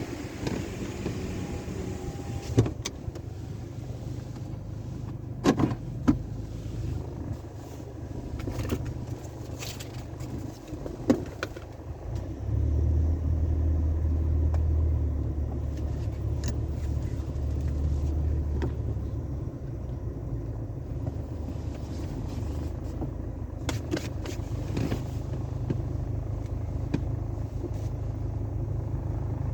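Sonny's conveyor car wash tunnel in operation: a steady low rumble with scattered knocks and thuds, and a louder low drone for about six seconds in the middle.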